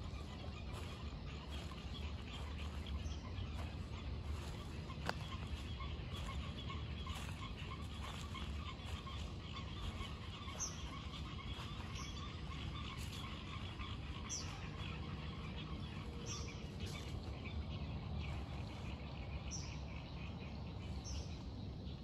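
Woodland birds chirping, with short, high, falling notes every second or two in the second half, over a steady fine trilling chorus and a low rumble. A single sharp click about five seconds in.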